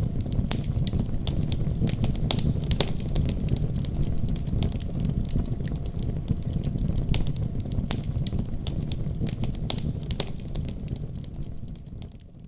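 Wood fire burning in a fireplace: a steady low rumble of flames with frequent irregular sharp crackles and pops. It fades out near the end.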